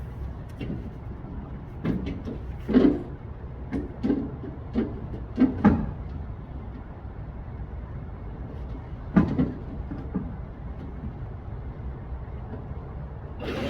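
A run of knocks and thumps, about half a dozen, over a steady low rumble. The loudest come a little under three seconds in, twice close together around six seconds, and once more about nine seconds in.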